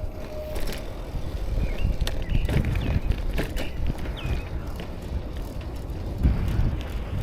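Bicycle riding noise: a steady low rumble of wind and road on the microphone, with rattles and clicks from the bike. A few short high chirps come through about two, three and a half, and four seconds in.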